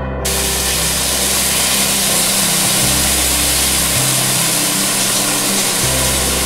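Bhuna qeema sizzling on a hot cast-iron sizzler plate: a steady hiss that starts just after the beginning, over background music with slow, held bass notes.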